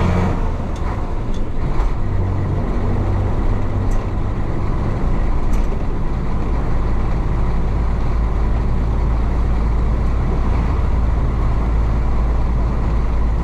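Isuzu DA640 six-cylinder diesel of a 1966 Isuzu BXD30 bonnet bus running under way, a steady low drone with road noise.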